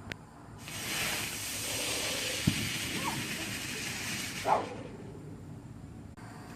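A handheld firework, such as a sparkler, burning with a steady hiss for about four seconds before cutting off.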